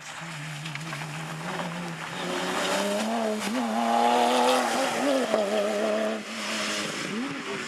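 Porsche rally car's flat-six engine running hard as the car comes by, its note growing to its loudest about four seconds in. It lifts off sharply around six seconds, then gives a quick blip near the end.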